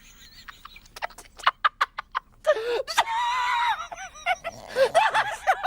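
A run of rapid, chopped clicks and stuttered sound fragments, then a high, wavering cartoonish cry and giggling, snickering voices.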